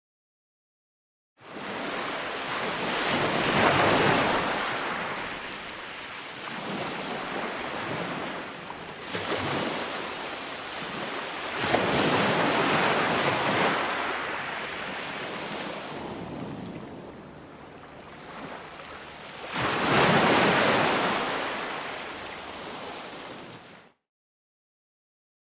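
Ocean waves breaking on a shore, swelling and falling back three times about eight seconds apart. The sound starts after a second and a half of dead silence and cuts off suddenly about a second and a half before the end.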